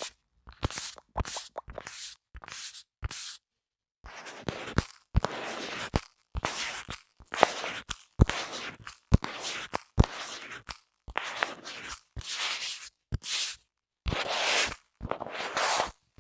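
Small objects scraped over a microphone in repeated short, scratchy strokes, each cut off into silence. There is a longer pause about three to four seconds in.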